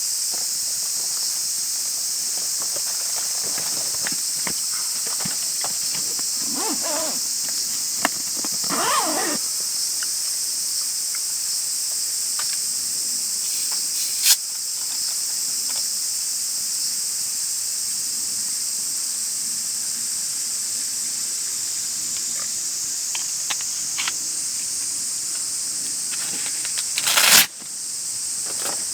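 Steady high-pitched shrilling of a summer insect chorus in the forest, with a few brief rustles and clicks and a single sharp knock near the end.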